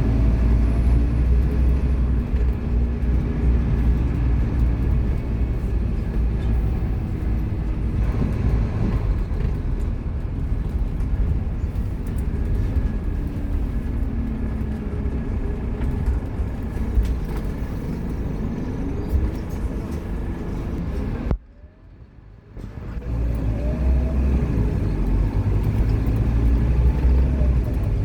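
Scania K230UB Omnilink bus's diesel engine running under way, a deep steady rumble with the engine note rising several times. The sound cuts out abruptly for about a second near the end, then returns.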